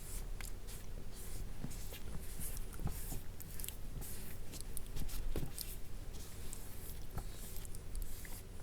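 Close-miked ASMR skincare sounds from toner being applied to a mannequin's face: soft scratchy rubbing with many small irregular clicks and taps over a low steady hum.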